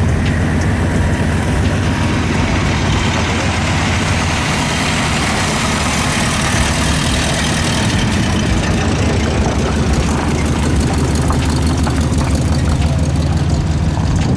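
A vehicle engine idling steadily, with a low, even rumble and a hiss over it.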